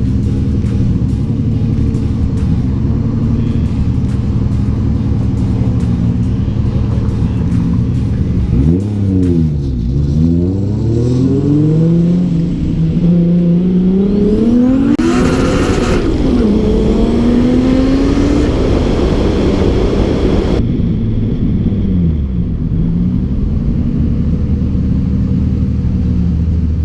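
Car engine running under way, holding a steady pitch at first, then dipping and climbing several times in the middle as it revs up through the gears, before falling back to a steady drone near the end.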